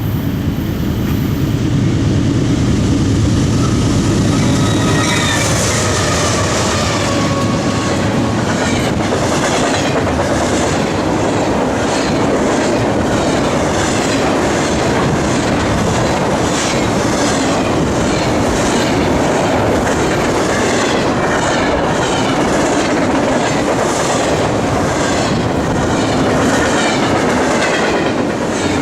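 CSX freight train rolling past close by, its steel wheels clicking over rail joints in an even rhythm, with squealing wheel flanges a few seconds in. A locomotive horn tone fades out at the very start.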